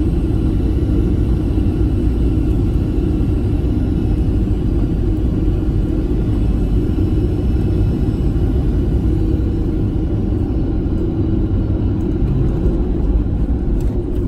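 Boeing 737-800 airliner noise: a steady low rumble with a faint high whine from its CFM56-7B turbofan engines that drifts slightly in pitch.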